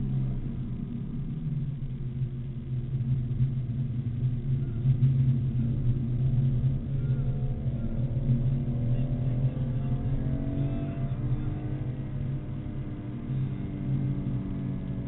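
BMW Z4 M Coupe's S54 inline-six running under way on track, heard from inside the cabin with road and wind noise. The engine note holds steady at first, then climbs in pitch for about five seconds midway as the car accelerates, and levels off near the end.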